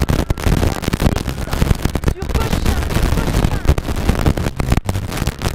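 Rally car engine running hard under load, heard loud and harsh from inside the cabin, with sharp crackling over it. It cuts out briefly about two seconds in and again near the end, as at gear changes.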